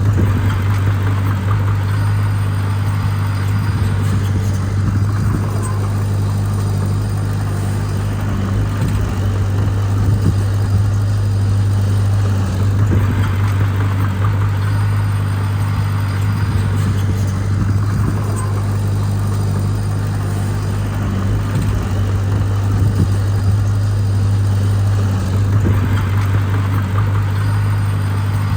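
Heavy diesel engine of earthmoving machinery running continuously with a steady low drone, its mechanical noise swelling and easing every several seconds as the machine works.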